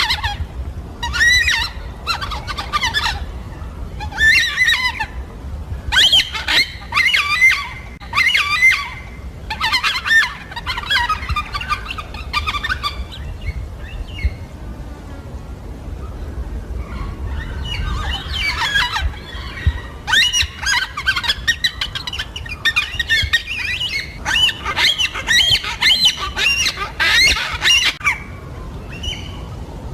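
Yellow-tailed black cockatoos calling: runs of harsh, squawking calls in quick succession, thinning out to a quieter stretch in the middle and then picking up again, over a steady low rumble.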